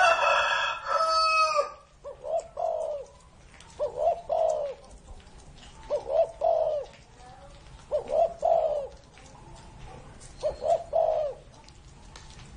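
Spotted dove cooing: five short phrases of low coos, one about every two seconds. At the start there is a louder drawn-out call with strong overtones, lasting about two seconds.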